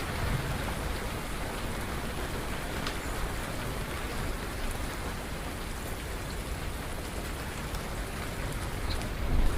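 Steady rain falling, with scattered drops ticking on a surface. A brief low rumble swells near the end.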